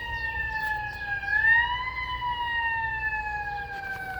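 Emergency vehicle siren on a slow wail: its pitch sags, climbs to a peak about two seconds in, then falls away slowly, over a low rumble.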